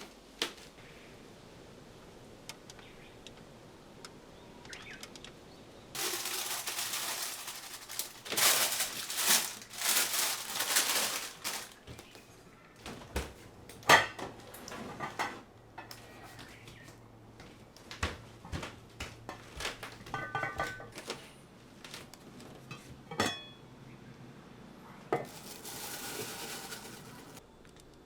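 Kitchen work with dishes and cutlery: a run of separate knocks and clinks, one with a brief ringing tone about two-thirds of the way in. Two spells of steady hiss, a long one starting about six seconds in and a shorter one near the end.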